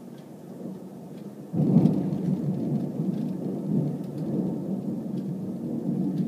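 Thunder from a nearby lightning strike: a low rumble swells, then breaks into a sudden loud peal about a second and a half in and keeps rolling. Rain falls throughout, with faint drops ticking.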